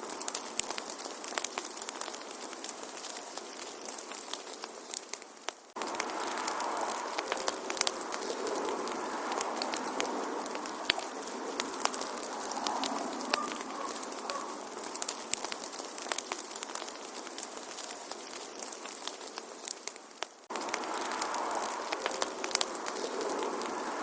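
Wood fire crackling: many sharp pops and snaps over a steady hiss. The sound breaks off and restarts abruptly twice, at about 6 and 20 seconds in.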